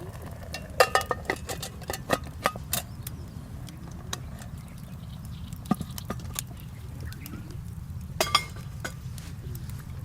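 Metal cooking utensils clinking against camp cookware, a scatter of sharp clinks with brief ringing in several small clusters, over a steady low rumble.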